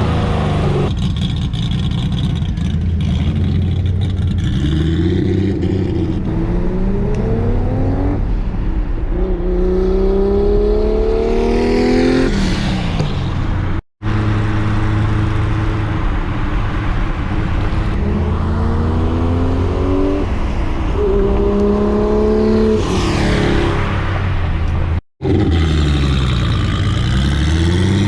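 Turbocharged RB straight-six in a Datsun 240Z accelerating hard, its pitch rising through the revs several times with drops at the gear changes, and the car passing by near the end. The sound cuts out abruptly twice, a little under halfway and about three quarters of the way in.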